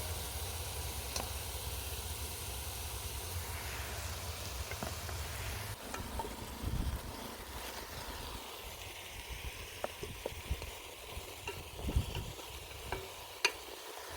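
Food sizzling in a cooking pot, with scattered light clicks and knocks of a utensil. A low rumble underneath stops about six seconds in.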